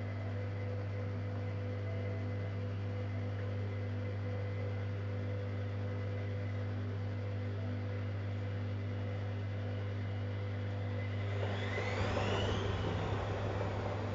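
Zanussi Jetsystem Turbodry ZWD 1000 washing machine running with a steady low hum. About eleven seconds in, a motor whine rises in pitch and the machine grows a little louder as the drum speeds up.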